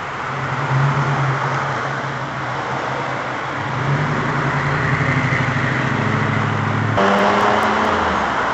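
Motor vehicle engine running in road traffic, its pitch stepping up about four seconds in, with a sudden change in the engine sound about seven seconds in.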